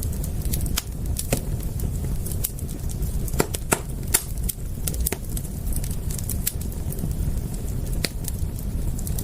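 Fire crackling: sharp, irregular pops and snaps over a steady low rumble of the burning fire.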